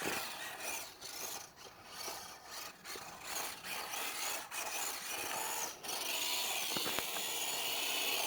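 WPL D12 RC drift truck's small electric motor and gears whining as it drives, rising and falling in several bursts with the throttle.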